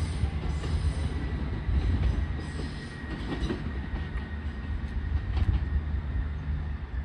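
A diesel train moving through a station: a low, steady rumble with a thin, steady wheel squeal above it and a few scattered clicks from the wheels on the track.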